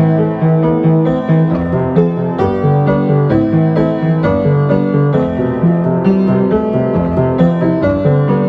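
Solo piano playing an original piece, a flowing stream of notes over a low bass figure that repeats in an even pulse.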